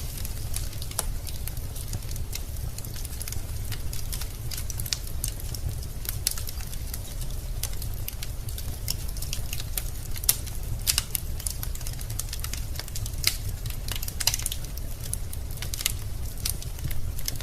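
Wood logs burning in a fireplace, crackling with irregular sharp pops and snaps over a steady low rumble.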